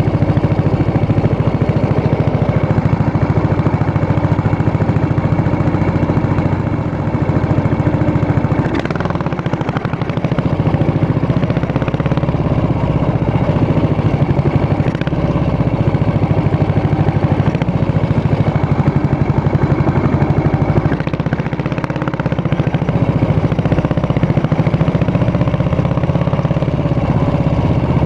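Yamaha SR400 air-cooled single-cylinder four-stroke engine running, its exhaust giving a steady, even pulse, with brief dips in level about 7, 10 and 21 seconds in.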